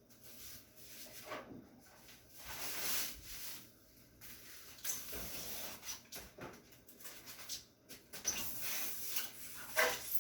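Rustling and handling of packaging, plastic and paper crinkling in uneven bursts with short pauses, and a brief sharper knock just before the end.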